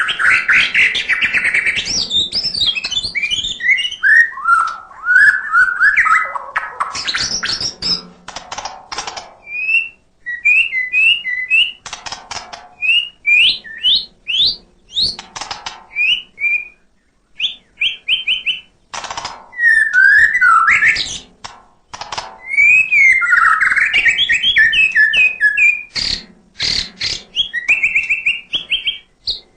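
White-rumped shama (murai batu) singing a loud, varied song full of mimicked notes: fast whistled phrases that swoop and jump in pitch, broken up by sharp clicking notes and brief pauses.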